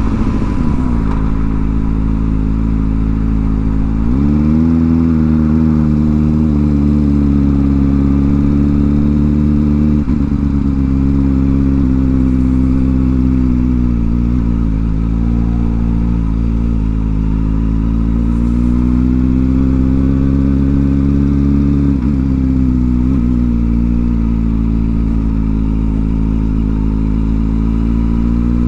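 Kawasaki Ninja ZX-4R's inline-four engine running through a new aftermarket exhaust while the bike is ridden. The engine note drops at the start, climbs again about four seconds in, then holds a fairly steady cruise with small dips and rises in revs.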